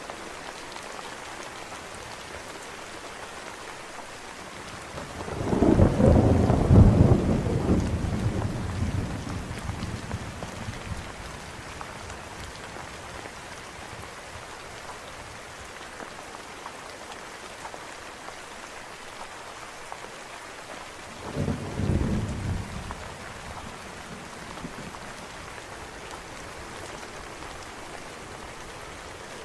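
Steady rain with two thunderclaps: a loud rolling rumble about five seconds in that dies away over several seconds, and a shorter, weaker one a little past the twenty-second mark.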